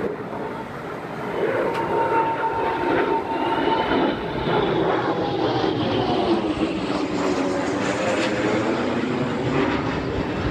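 Embraer Phenom 100 twin-turbofan jet flying low past, its engine noise swelling about a second and a half in and holding, with a turbine whine that falls in pitch as it goes by.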